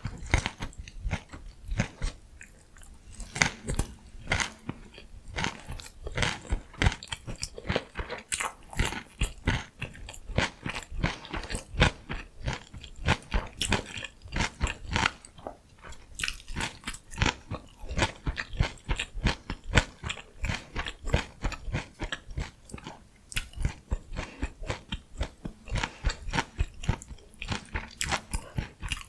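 Close-miked chewing and crunching of crisp vegetables and pickles, with many sharp crackling crunches several times a second, rising and falling with each bite.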